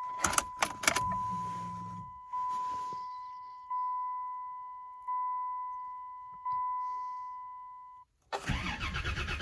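Chrysler New Yorker's dashboard warning chime bonging steadily about every second and a half as the key is cycled to prime the fuel system, with a few clicks and a short hum about a second in. The chime cuts off near the end and the engine cranks and starts on a cold start at about 20 °F.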